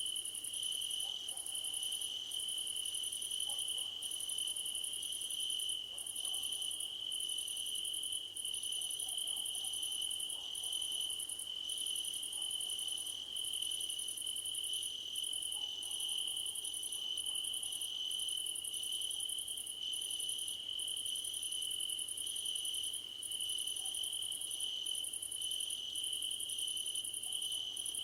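Crickets singing: one steady, unbroken high trill, with a second, higher insect song layered over it that starts and stops every second or two.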